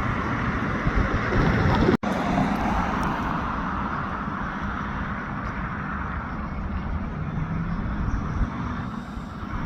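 Diesel locomotives running with a steady low rumble that fades gradually. The sound cuts out for an instant about two seconds in.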